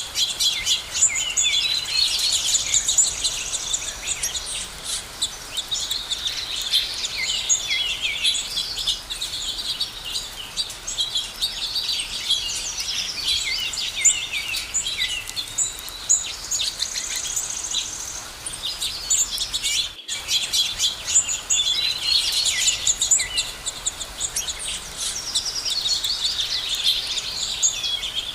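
A dense chorus of many small songbirds chirping and singing over one another, high-pitched and continuous, with a momentary break about twenty seconds in.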